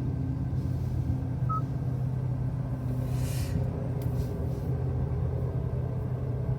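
Hyundai i20N's 1.6-litre turbocharged four-cylinder engine idling steadily, a low even hum heard from inside the cabin.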